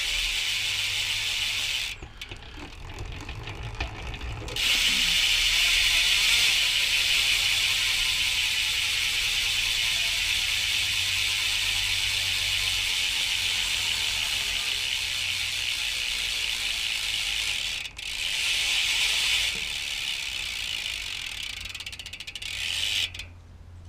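Profile Mini BMX rear hub freewheeling, its pawls clicking over the ratchet so fast they run together into a loud, steady buzz. The buzz slows slightly as the wheel coasts down, drops for a couple of seconds, then comes back louder about four and a half seconds in when the wheel is spun up again. It breaks off briefly near eighteen seconds and fades near the end.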